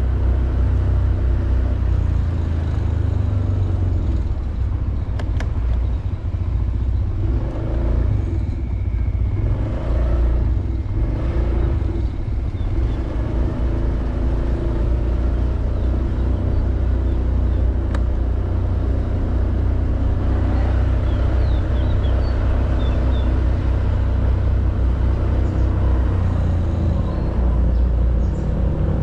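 Honda Beat 110cc scooter's single-cylinder engine running steadily while riding, under a heavy low rumble of wind and road noise.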